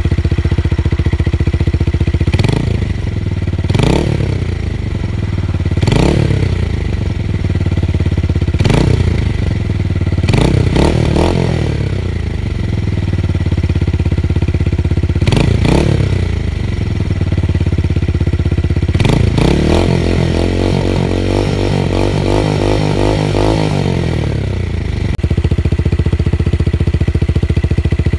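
Tuned motorcycle engine with a deep, bassy exhaust note, idling and blipped sharply about seven times, each rev rising and falling quickly. Near the end it is held at higher revs for about five seconds, then drops back to idle.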